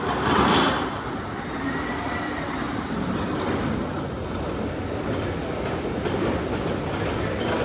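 Merlo ROTO rotating telehandler raising its man platform: engine and hydraulics running steadily, with a thin high squeal that fades out about three and a half seconds in.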